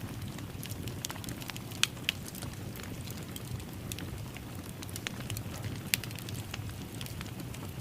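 Wood fire crackling in a fireplace: a steady low rumble of burning with frequent sharp pops and snaps. Two pops stand out, one about two seconds in and one about six seconds in.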